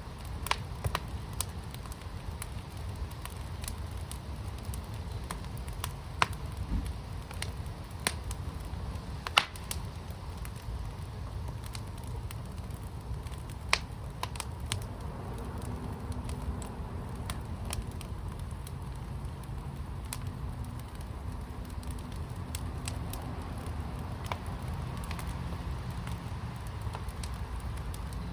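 Wood fire in an outdoor fire pit crackling, with scattered sharp pops, a few louder ones in the first half, over a steady low rumble.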